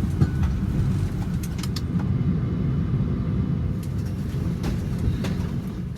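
Steady low rumble of a vehicle in motion, with a few faint clicks over it. It fades out abruptly near the end.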